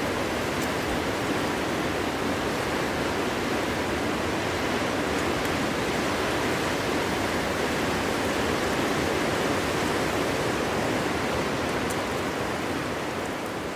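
Cold winter wind blowing steadily through a forest, a dense rushing noise that eases a little near the end.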